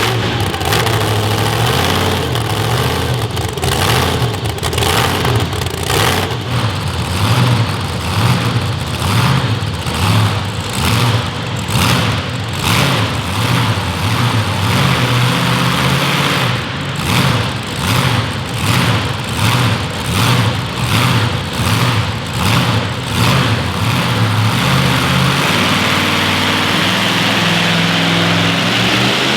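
A loud engine of a truck or tractor at a pulling competition, surging up and down about once a second for much of the time, then running more evenly near the end.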